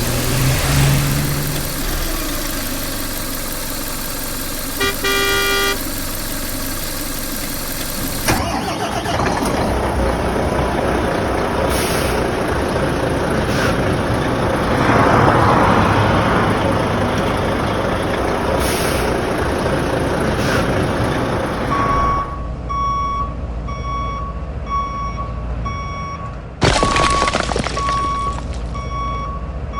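Heavy-vehicle engine sounds, with a short horn-like honk about five seconds in, then a steady reversing alarm beeping about one and a half times a second for the last eight seconds, broken by a brief loud rush of noise.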